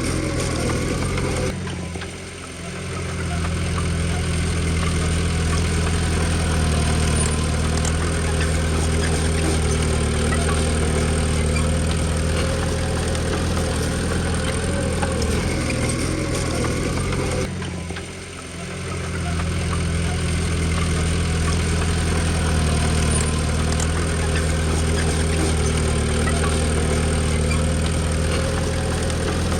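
Diesel engine of heavy earthmoving machinery running steadily, its low engine note dipping briefly twice, about two seconds in and again about eighteen seconds in.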